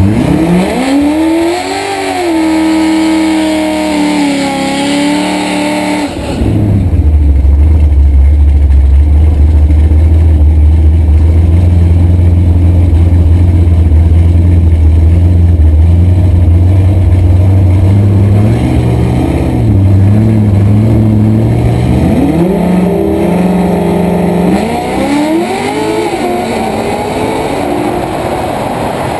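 C6 Corvette's V8 revved up and held at high revs for about six seconds, then dropping to a steady, loud idle with a couple of small blips. About 22 seconds in it launches and accelerates hard, pitch climbing and falling back through several quick upshifts.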